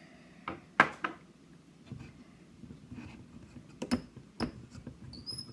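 Sharp clicks and knocks of a lock and small metal tools being handled, the loudest just under a second in and two more around four seconds in.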